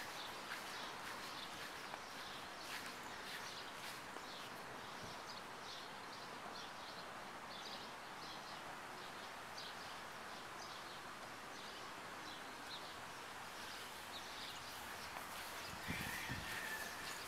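Outdoor ambience: a faint steady hiss with small birds chirping again and again. A couple of soft low knocks come near the end.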